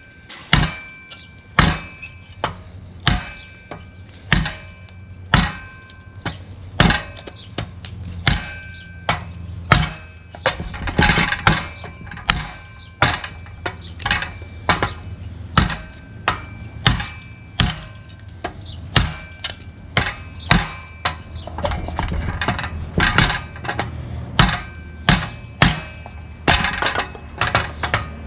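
Bowie knife with a 52100 steel edge chopping through a pine 2x4, its blade striking the wood over and over at roughly three chops every two seconds, with a steady low hum underneath. It is an edge-retention test: repeated full-force chops into the board.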